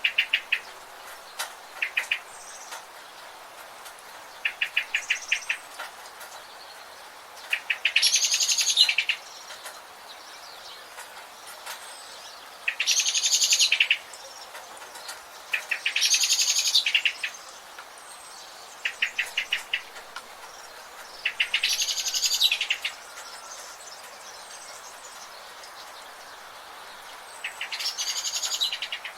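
Forest birds calling: loud rapid trills about a second and a half long, repeated every few seconds. Between them come short runs of quick clicking notes, over a steady hiss of background ambience.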